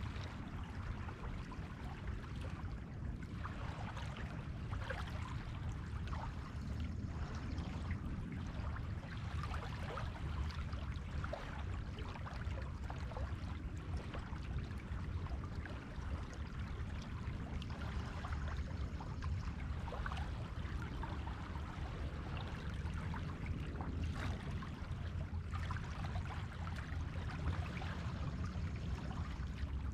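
Sea waves washing onto a beach: a steady low surf rumble with fizzing, crackling water swells every several seconds as the waves run up and drain back over the shore.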